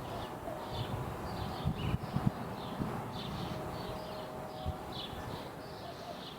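Small birds chirping over and over, short high calls, with a few low gusts of wind thumping the microphone in the first half.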